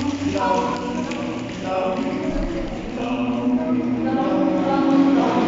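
A group of voices singing together in chorus, holding sustained notes and moving from note to note.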